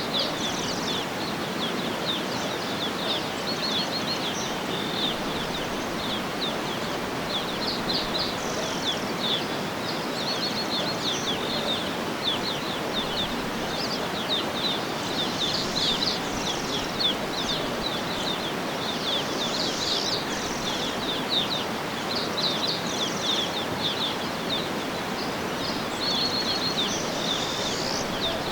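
Birds chirping and calling almost without pause, many short high chirps and trills, over a steady even background hiss of outdoor ambience.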